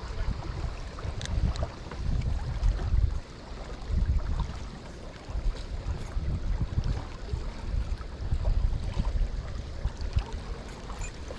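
Wind gusting on the microphone over the steady rush of strong river current flowing past rocks, the low rumble rising and falling in uneven gusts.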